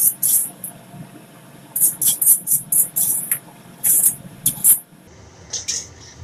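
Slotted metal spatula scraping across a wok in quick short strokes, scooping fried chili sambal onto a plate; the scraping stops about five seconds in.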